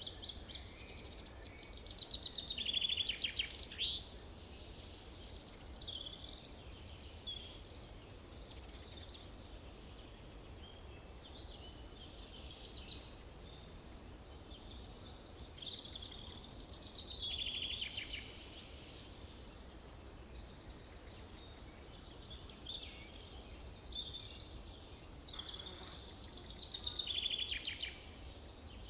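Forest birds singing, with many overlapping chirps and rapid trills. Three trilling phrases stand out as loudest: one a few seconds in, one midway and one near the end. A faint steady low rumble lies underneath.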